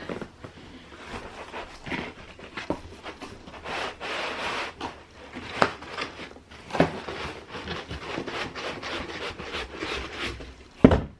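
Cardboard box being opened and handled: scraping, rubbing and rustling with irregular knocks and taps, a stretch of rustling about four seconds in, and a loud thump near the end.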